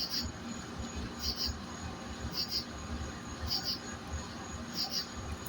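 An insect chirping in a steady rhythm, a high-pitched double-pulsed chirp about once every second and a bit, over a low background rumble.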